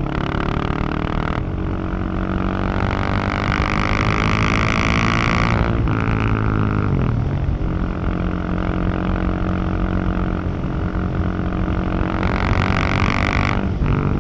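Husqvarna 701 supermoto's single-cylinder engine and exhaust running under way, a steady drone. The revs climb slowly, dip about six seconds in, hold steady, then climb again near the end before dropping once more.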